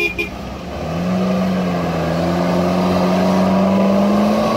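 Two short beeps right at the start, then a modified UAZ off-roader's engine revving hard under load as it tries to back out of a deep mud rut, its pitch climbing slowly and steadily.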